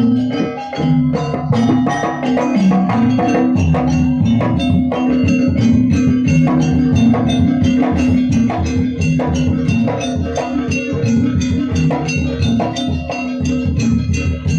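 Gamelan-style dance music: drums and tuned mallet percussion playing a dense, steady rhythm over ringing pitched notes.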